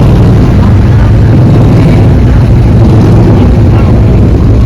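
A car engine running steadily at a low, even pitch, loud and close, with no revving.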